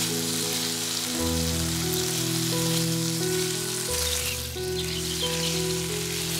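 Food sizzling as it fries in a pan, a steady crackling hiss, under background music with a bass line.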